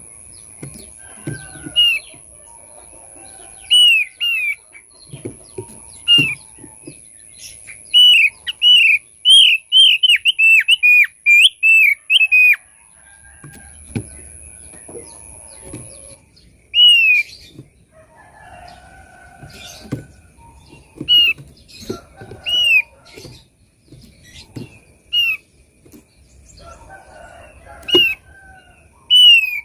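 Thick-billed white-eye (opior paruh tebal) calling: repeated short chirps that rise and fall in pitch, with a quick run of about a dozen in the middle. This is a lure call used to draw in birds of the same species. Soft knocks and rustles sound under the calls.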